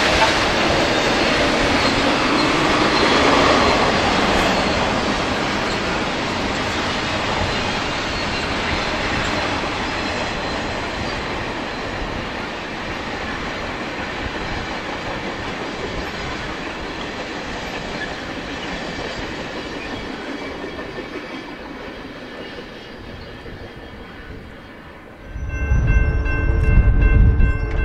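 Railroad cars rolling past on the rails, a steady wheel-on-rail rush with clickety-clack that slowly fades as the train moves away. About 25 seconds in it gives way abruptly to a louder, deep rumble with a steady chord of several held tones.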